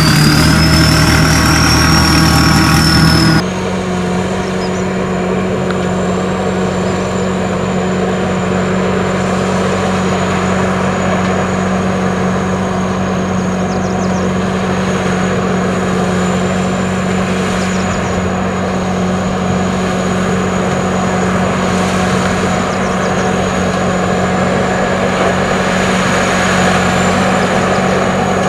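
Music for the first few seconds, cut off abruptly by the steady running of an SS-200 mini corn combine harvester, its engine and machinery droning evenly with a thin, constant high whine.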